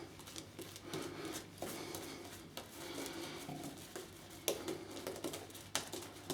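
Wolf Whiskers shaving brush working Williams menthol shaving cream into a lather: soft, uneven swishing and rubbing with a few sharp clicks.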